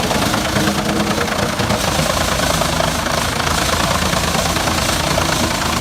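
A large engine running steadily, with a harsh mechanical noise over it.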